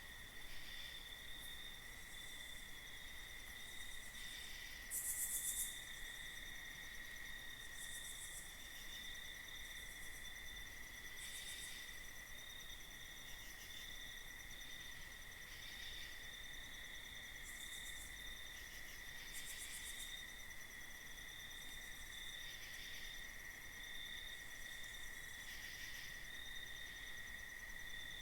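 Night insects calling: a steady, unbroken cricket trill, joined every few seconds by short, rapidly pulsed high-pitched buzzes from other insects. The loudest buzz comes about five seconds in.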